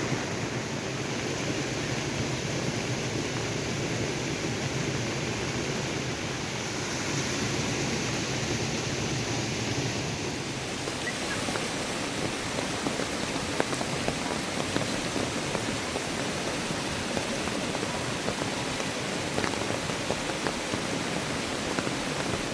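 Heavy rain falling steadily: an even hiss with a few scattered sharp drop ticks.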